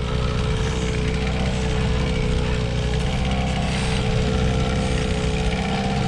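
Boat's outboard motor running steadily at trolling speed, a constant low drone with a steady hum on top.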